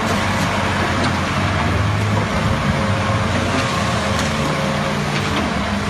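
Truck-mounted concrete mixer pump running steadily, its engine giving a continuous low hum under a broad machinery noise.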